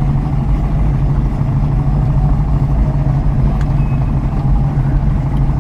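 Chevrolet Nova's engine running steadily, a constant low drone with no change in speed or pitch.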